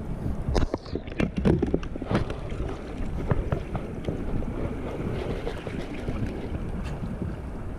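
Wind rumbling on a GoPro's microphone, with irregular scratching and knocking from a lifejacket rubbing against the camera, busiest in the first few seconds.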